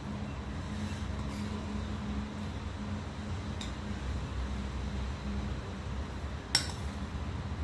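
Steady low hum, with a couple of faint clicks and one sharp clink about six and a half seconds in.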